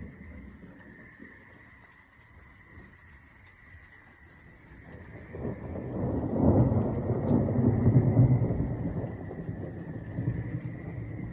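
Thunder: a deep rumble that starts to build about halfway in, swells to its loudest a couple of seconds later, then rolls on and slowly fades.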